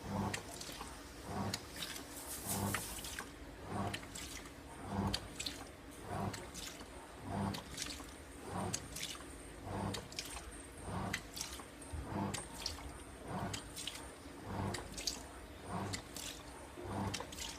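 AQUA MCW-C50 coin-operated top-loading washing machine agitating a load: the pulsator swings back and forth with a short motor hum and a slosh of water about every second and a bit.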